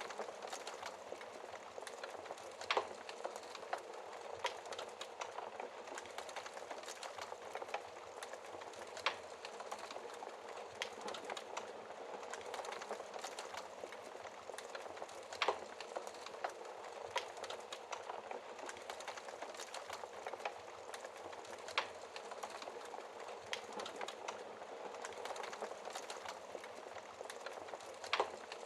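Wood fire burning in a fireplace: a steady soft hiss with frequent small crackles, and a sharper pop about every six seconds.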